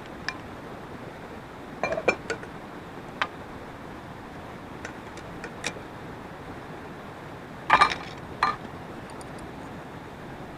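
Scattered light clinks and knocks of hard objects being handled, the loudest a quick double knock near the end, over a steady hiss.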